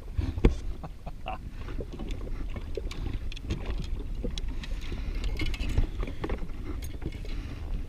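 Water slapping against the hull of a drifting jet ski, with a low rumble of wind on the microphone and scattered light knocks, one sharper about half a second in. No engine is running.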